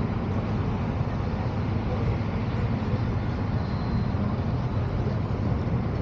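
Steady low rumble of vehicle engines and road traffic, with faint voices underneath.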